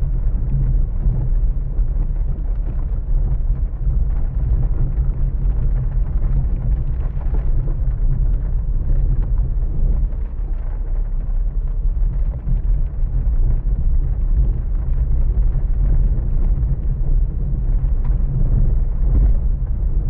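Strong storm wind buffeting the microphone: a loud, steady low rumble that wavers in strength.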